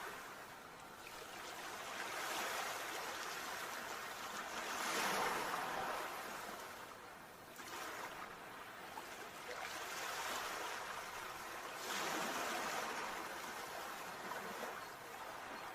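Sea waves breaking and washing in, a rushing surf that swells and falls away every few seconds, with the biggest surges about five and twelve seconds in.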